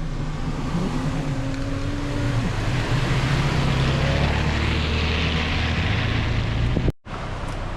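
An engine running steadily, its pitch rising and then dropping about two seconds in. It cuts off abruptly near the end, giving way to a quieter, even rushing noise.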